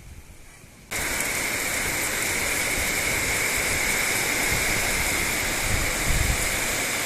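Heavy rain pouring down in a steady, loud hiss that cuts in suddenly about a second in.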